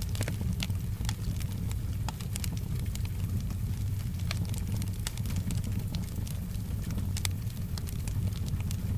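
Wood fire crackling in a fireplace: irregular sharp pops and snaps, many a second, over a steady low rumble.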